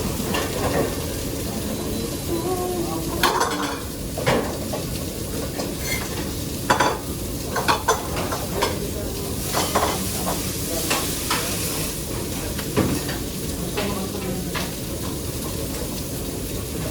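Steady sizzling of food frying in a pan, with scattered knocks and clinks of a utensil stirring against the pan.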